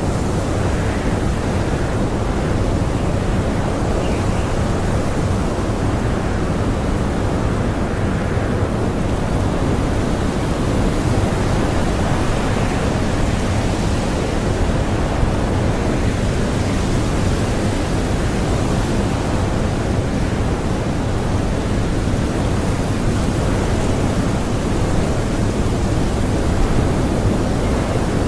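Blizzard wind blowing in a steady, dense rush that stays even in level throughout.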